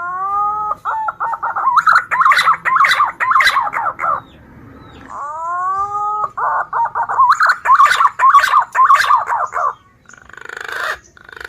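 Green pigeon (punai) song, used as a lure call: twice, a rising whistled note followed by about three seconds of rapid warbling notes.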